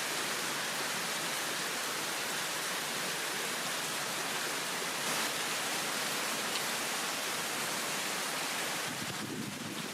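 Heavy downpour of rain: a steady, dense hiss. About nine seconds in, the hiss thins and a lower, uneven rustle comes in.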